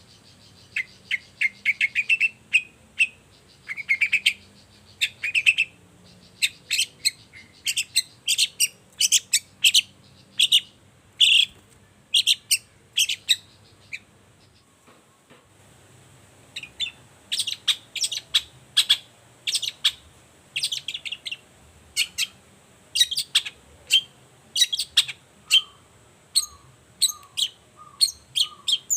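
A long-tailed shrike (cendet) sings a fast series of short, sharp, high chattering notes. The song breaks off for about two seconds midway and then resumes. Near the end a lower repeated note joins in.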